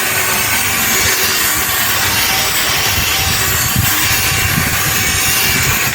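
Plastic headlight lens being polished with polishing compound: a steady, loud buffing noise.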